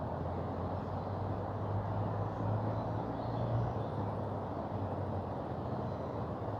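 Mountain river rushing: a steady roar with a deep low rumble that swells briefly a few seconds in.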